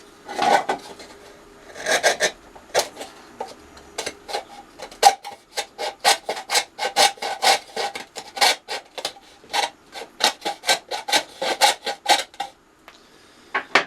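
Hand plane shaving the edge of a thin plywood box in short scraping strokes: a few spaced strokes at first, then a quick run of two to three strokes a second that stops near the end.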